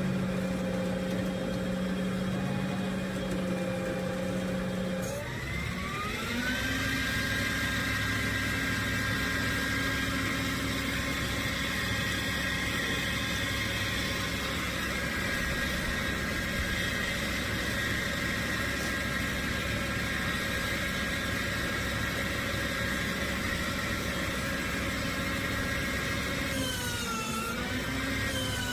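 A flatbed tow truck's engine running steadily. About five seconds in its pitch rises over a second or so and then holds, with a brief dip and recovery near the end.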